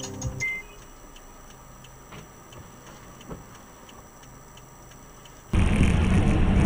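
Faint, regular ticking. About five and a half seconds in it cuts abruptly to loud, steady wind and road noise from a moving vehicle.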